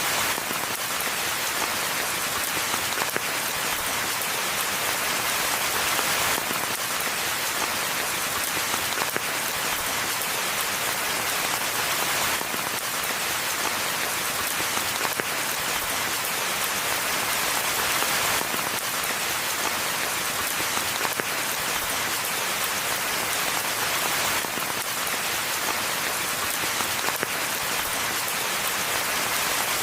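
Steady rain falling in a forest, an even hiss of countless drops on leaves and the path, with no thunder.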